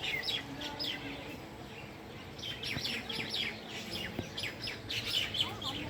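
House sparrow chirping: quick, short chirps that slide down in pitch, a brief burst at the start, then a longer, busier run from about two and a half seconds in.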